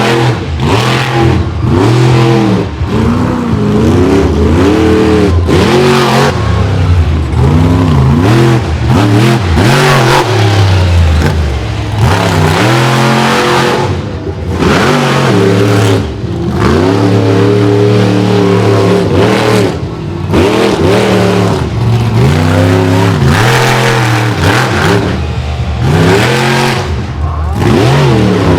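Monster truck engine revving hard and loud, its pitch climbing and dropping in quick arcs every second or so, with a few longer stretches held steady at high revs.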